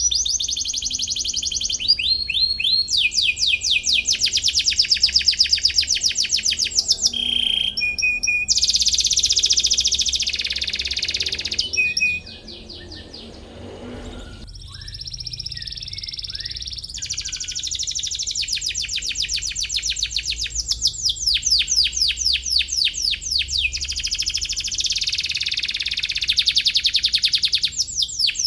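Domestic canary singing loud, rapid trills of fast repeated chirps, one roll running into the next. About halfway through it goes softer for a couple of seconds, then picks up its rolls again.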